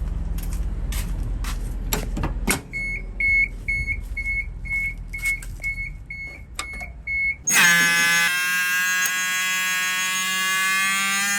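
Hino 700 truck's diesel engine idling with a few clicks, then falling away about two and a half seconds in. A steady run of short electronic warning beeps follows, about two a second. About two-thirds of the way through, a loud continuous warning buzzer with many overtones takes over.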